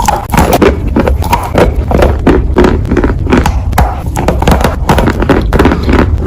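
Close-miked chewing and crunching of food, a rapid run of crackly bites and chews a few times a second over a low rumble.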